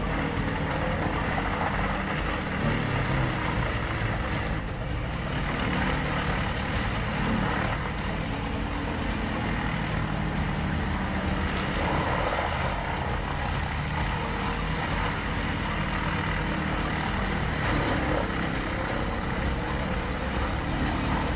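Vermeer WC2500 XL wood chipper's 213-horsepower engine running steadily under a continuous dense machine noise.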